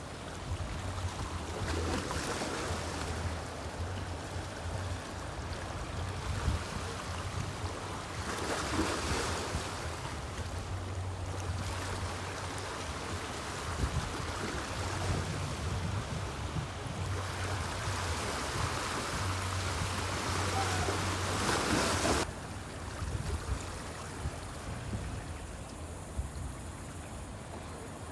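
Wind gusting over the microphone above the wash of river water, with a low rumble that comes and goes. It swells in gusts and drops off suddenly about 22 seconds in.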